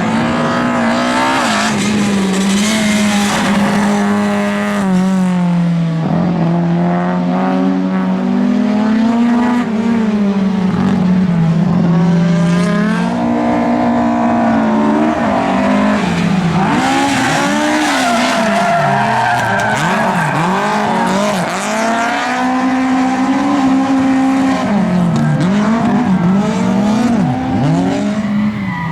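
Lada race cars' engines revving hard, the pitch climbing and dropping again and again as they shift through the gears. More than one car is heard at once for a while in the middle, with tyre squeal.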